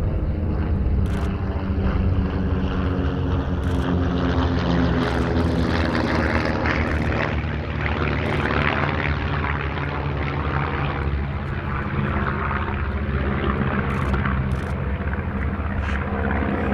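Propeller aircraft of an aerobatic display team droning in flight overhead. The engine note shifts slightly in pitch, and the sound swells somewhat in the middle as the planes pass.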